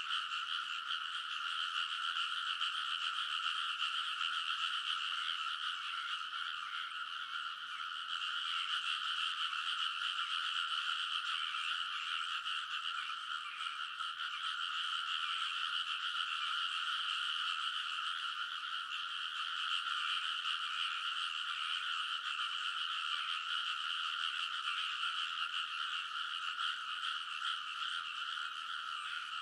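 A full chorus of many frogs in a rice paddy, calling all at once. The calls overlap into a steady, unbroken wall of croaking.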